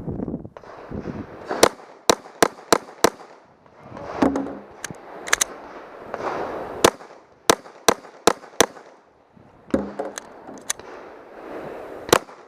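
Pistol fired in rapid strings of about five shots, three to four shots a second, with pauses of a second or two between strings: the strings of a 5+5+5 speed drill with reloads in between.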